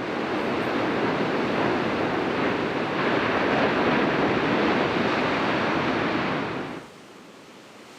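Heavy ocean surf surging and crashing into a narrow rocky sea chasm. The loud rush cuts off suddenly about seven seconds in, leaving a softer, steady wash of surf.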